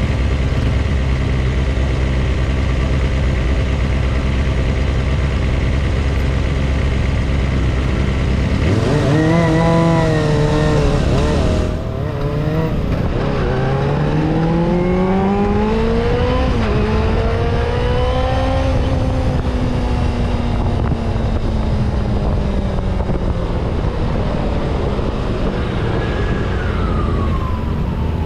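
Vehicle engine idling steadily, then pulling away about nine seconds in and accelerating through several gear changes, its pitch climbing and dropping back at each shift. A falling whine follows near the end.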